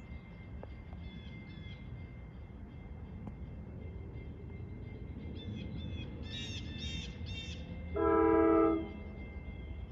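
Nathan K5LA five-chime air horn on an LIRR DE30AC diesel locomotive sounding one short blast of under a second near the end, over a low steady rumble. A bird chirps a few times just before the blast.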